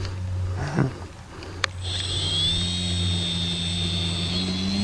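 Radio-controlled model plane's motor and propeller spinning up about two seconds in, after a single click, then running with a high whine and a pitch that rises slowly as the throttle comes up.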